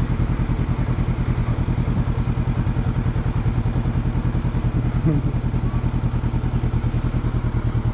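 Motorcycle engine idling steadily with an even, rapid pulsing beat and no revving.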